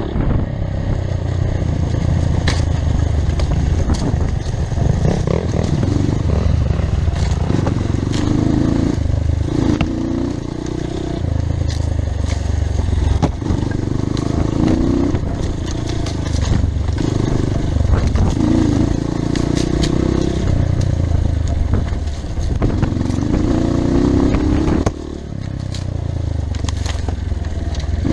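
Off-road motorcycle engine running under load, its pitch rising again and again as the throttle opens, with scattered sharp clicks and crackles of stones and rough ground.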